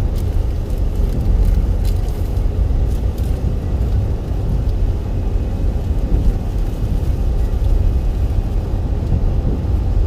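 Steady low rumble of car road noise, with a few faint ticks in the first few seconds.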